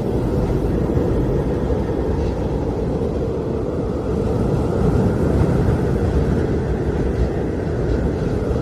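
Blizzard wind blowing hard in the mountains: a steady, low, rushing noise that does not let up.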